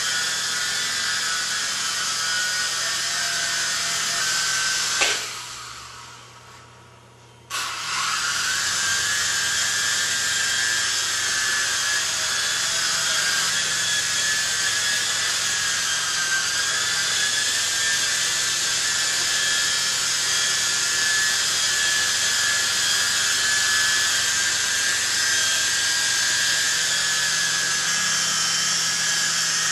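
Small electric motors and counter-rotating rotors of a Venom Ozone micro RC helicopter whining steadily in flight, the pitch wavering slightly as the throttle changes. After a sharp knock about five seconds in the whine fades away, and it comes back abruptly about two and a half seconds later.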